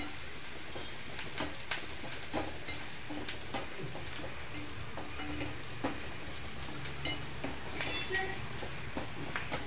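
Onion, garlic and chilli frying in oil in a kadhai for a phodni tempering: a steady sizzle with scattered small pops and crackles.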